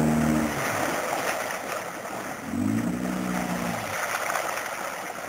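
Boat outboard motor running, then cutting out about half a second in. Water rushes and laps around the hull as the boat slows, with a brief pitched hum near the middle.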